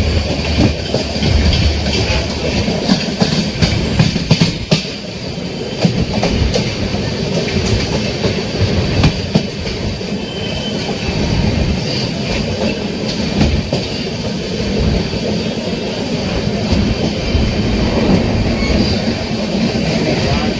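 Passenger train running on the track: steady rumble with frequent irregular clicks and clatter of the wheels over the rails, and a faint high wheel squeal.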